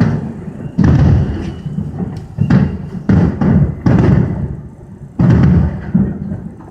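Fireworks bursting in a string of booms, about one a second, each fading out over roughly a second.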